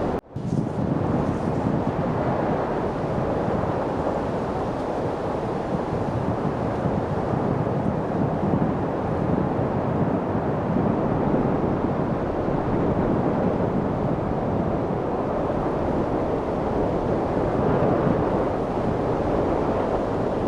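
Steady wind noise with a low, even rush and no distinct gusts. It cuts out for a split second just after the start, like the seam of a looped recording.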